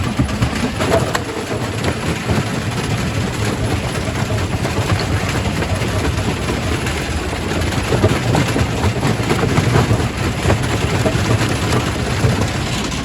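Quarry primary rock crusher running under load: a steady heavy rumble with dense knocking and clattering of stone being broken, a little louder in the middle of the stretch.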